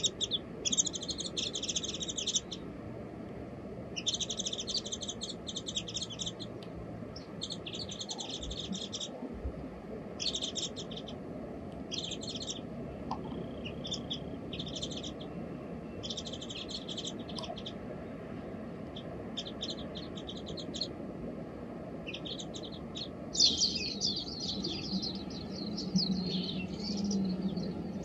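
Small songbirds chirping in repeated short bursts of rapid high notes, each about a second long, with a longer, busier run of chirps near the end.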